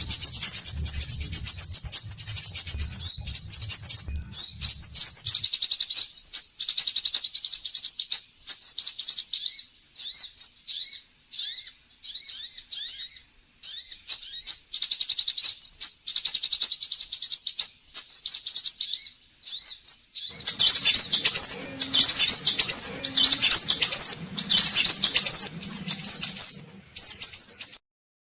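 Scarlet minivet (sepah raja) singing a long, fast run of high chirping phrases separated by short breaks. A rougher noise rises under the song about two-thirds of the way through.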